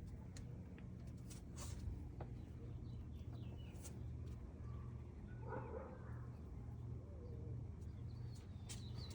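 Birds calling: scattered short chirps, a brief cooing call about halfway through, and a few gliding chirps near the end, over a low steady rumble.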